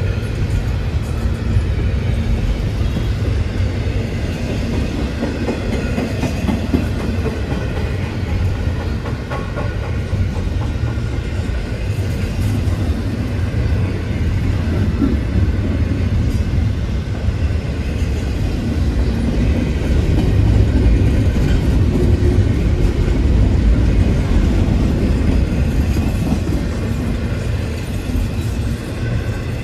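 Double-stack container cars of a freight train rolling past: a steady low rumble with the wheels clicking over the rails.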